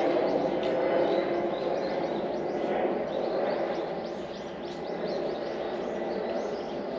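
Small birds chirping in many quick, short calls over a low rumble that slowly fades away.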